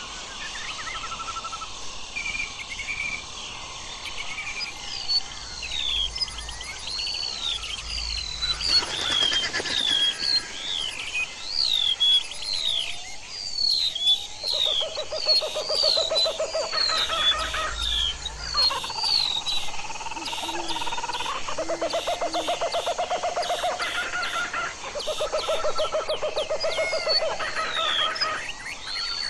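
Forest ambience of birds calling, with many short slurred whistled notes repeated throughout. From about halfway, a low pulsing trill comes in several bouts of a few seconds each.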